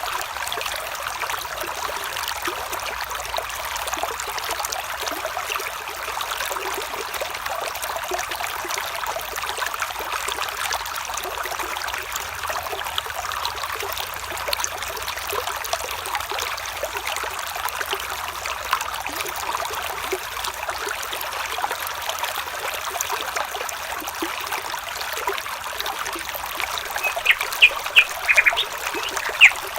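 Water trickling steadily, like a small stream. Near the end comes a quick run of short bird calls.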